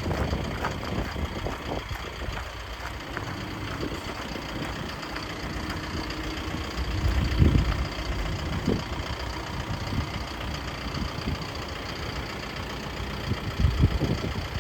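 Isuzu NNR 200 light truck's diesel engine idling steadily, with a couple of louder low thumps, about halfway through and near the end.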